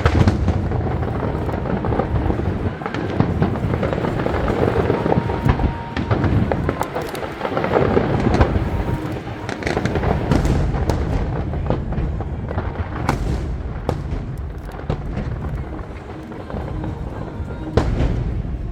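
Aerial fireworks display: a dense, continuous barrage of bangs and crackles over a low rumble, with music playing beneath.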